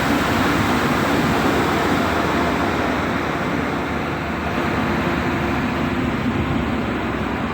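Boat engine running steadily, a constant mechanical drone with a low hum.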